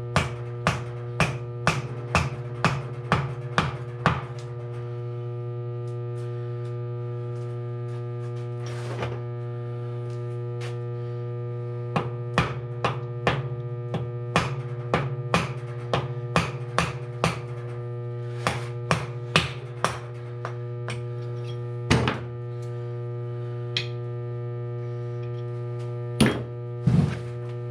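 Hand tools working on a motorcycle engine: runs of sharp, even metal clicks about two a second, then a few louder single knocks, over a steady hum.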